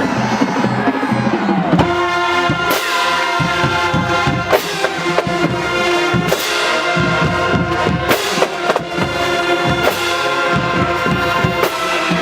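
High school marching band playing a stand tune: brass (trumpets and trombones) holding and moving through notes over a steady beat of drum hits.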